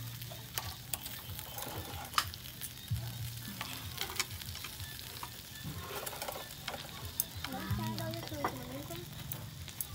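Food frying and sizzling in a pan while it is stirred, with scattered sharp crackles and clicks.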